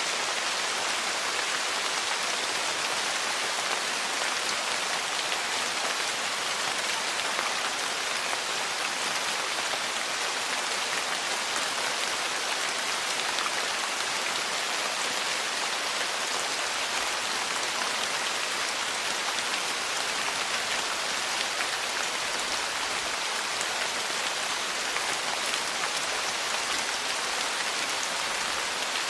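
Steady, heavy rain falling on a porch roof and surfaces, a dense even patter without let-up.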